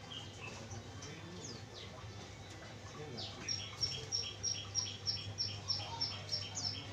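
A small songbird calling: a few high notes sweeping downward, then from about three seconds in a fast, even run of short, high chirps, about three a second.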